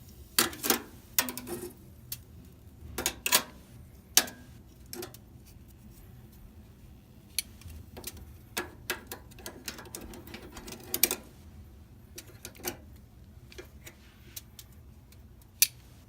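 Irregular metal clinks and clatters of oven trays and racks being handled as chicken pieces are laid on them, loudest in the first few seconds, with scattered lighter taps after.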